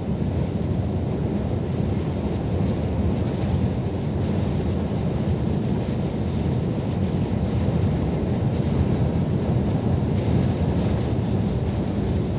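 Scania R500 truck cruising on the road: a steady low drone of engine and road noise with no change in speed or gear.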